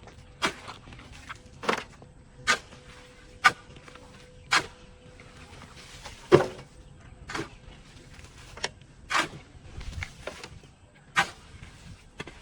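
A hand tool chopping through overgrown weeds: a series of sharp strikes, roughly one a second, some harder than others.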